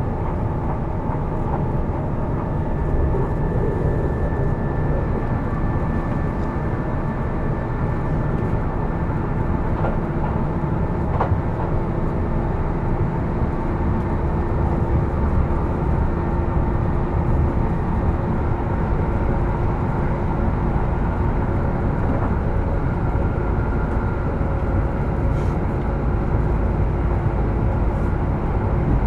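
Kintetsu 12200 series train running at a steady speed, heard from inside motor car Mo 12051. There is a constant rumble of wheels on rail, with a faint steady hum from the traction motor and gears.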